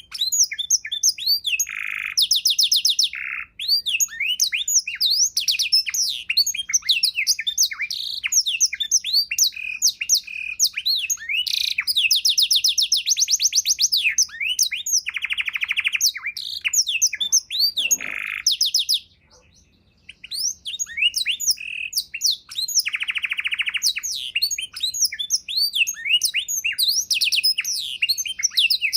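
Domestic canary singing a long, rich song of rapid chirps, fast trills and buzzy rolls, a song packed with learned phrases of the kind kept as a tutor recording for other birds. The song breaks off briefly about nineteen seconds in, then carries on.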